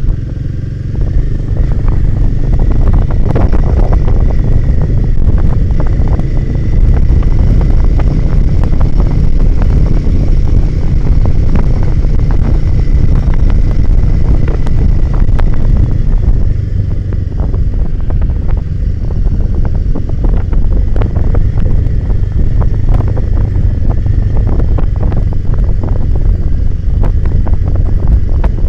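Royal Enfield Himalayan 450's single-cylinder engine running under way, with wind buffeting the microphone and frequent sharp clicks and knocks throughout. The engine eases off briefly a little past halfway, then picks up again.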